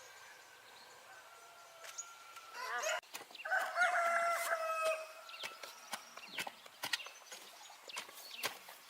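A rooster crows once about two and a half seconds in: a rising start, then a long held call of about two seconds. Scattered light clicks follow.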